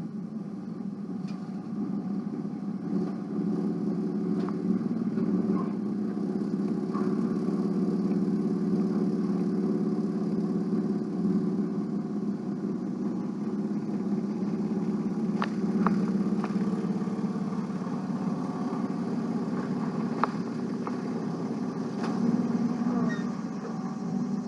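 A truck's engine running steadily at low speed while the truck is moved, with a few light clicks scattered through.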